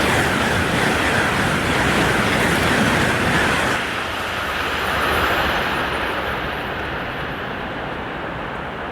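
High-speed train rushing through the station at speed: a loud, even rush of wheel and air noise that drops about four seconds in and then fades as the train draws away.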